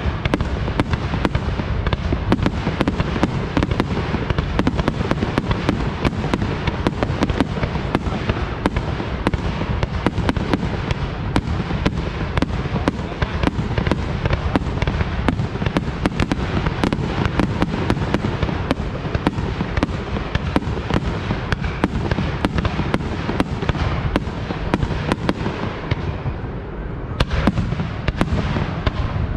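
Fireworks display: a dense, unbroken barrage of shell bursts, many bangs a second over a heavy low rumble. It eases briefly near the end, then starts up again with a sharp bang.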